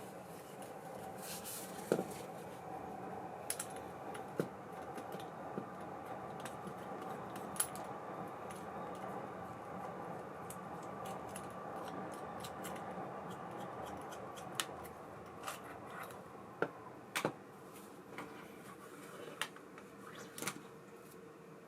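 Small metal parts of an ABU Ambassadeur 5500C baitcasting reel being handled, with scattered light clicks and taps over a steady whir.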